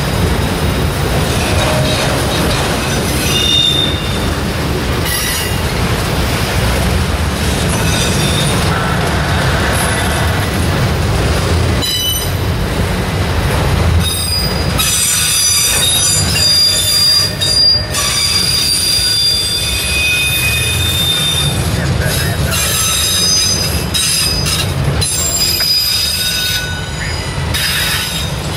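Freight train of enclosed autorack cars rolling past: a steady low rumble of cars on the rails, with repeated high-pitched wheel squeals that come thicker in the second half.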